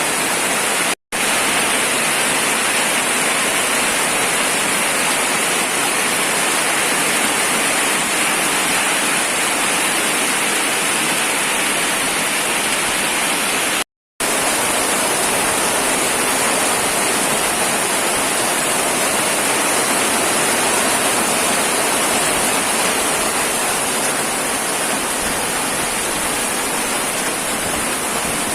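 Heavy rain: a loud, steady rushing hiss, broken by two short dropouts to silence, about a second in and around fourteen seconds in.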